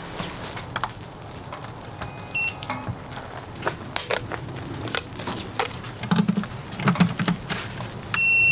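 Camp-gear handling: scattered small clicks and knocks with a few dull thuds, and a short high electronic beep about two and a half seconds in, then a louder beep near the end.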